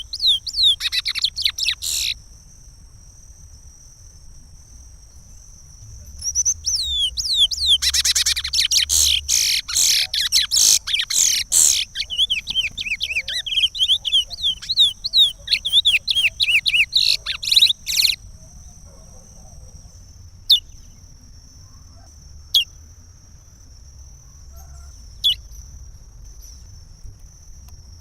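Curió (lesser seed-finch) singing the Pará regional song. A short burst of rapid whistled notes is followed, after a pause of a few seconds, by a long song of about twelve seconds of fast, varied whistles and trills. After that come a few single short chirps spaced a couple of seconds apart.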